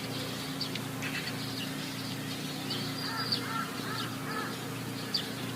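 Birds calling: a run of short, repeated arching notes about halfway through, with sharp high chirps scattered throughout, over a steady low hum.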